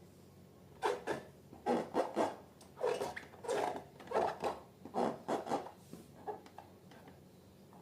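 A run of about a dozen short rubbing, scraping strokes over roughly five seconds, then it stops, from hands working balloon material and slime.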